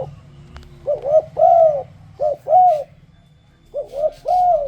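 Spotted dove cooing: three phrases, each of one or two short coos and then a longer drawn-out coo, every note rising and falling in pitch.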